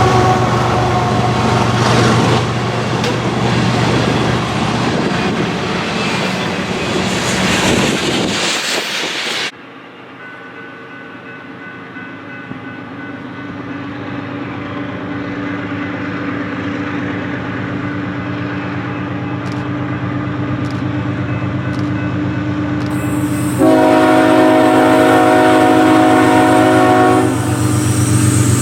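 A train passing close by with loud rolling wheel noise over a low engine hum. After a cut, a diesel locomotive approaches, growing steadily louder, and sounds its multi-chime air horn in one long blast of about three and a half seconds near the end.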